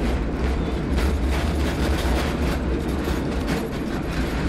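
San Francisco cable car running along its line: a steady low rumble with irregular rattling and clicking from the car and its cable.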